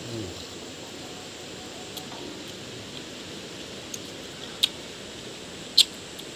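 A man chewing a mouthful of rose apple dipped in petis, with a short hum at the start and a few mouth clicks, two of them sharp and louder near the end, over a steady outdoor hiss.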